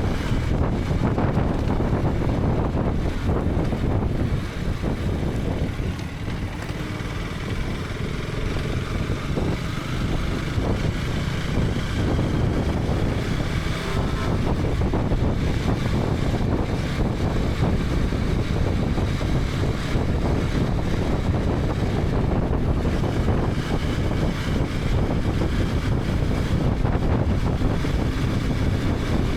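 KTM 250 Adventure's single-cylinder engine running under way, with wind rushing over the helmet-mounted microphone. The sound eases for a few seconds about five seconds in, then holds steady.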